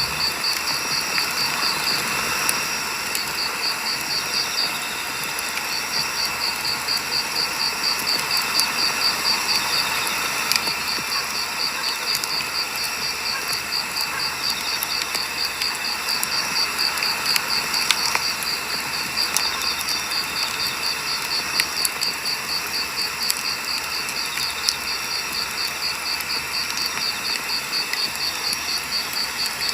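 Firewood burning with steady crackling and scattered sharp pops. Over it runs a high, rapid, even insect chirping that breaks off briefly about five seconds in.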